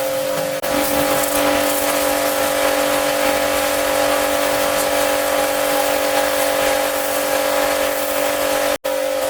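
High-pressure washer running and spraying: a steady motor-and-pump whine over a wide hiss of water spray. It is briefly cut about half a second in and again near the end.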